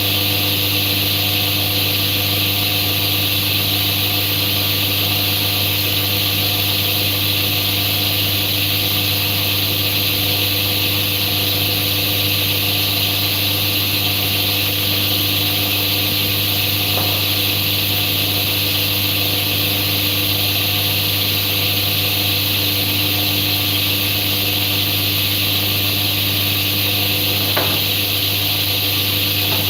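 A workshop machine's motor running steadily without cutting, a constant drone with a hiss over it. Two faint ticks come through, one about halfway and one near the end.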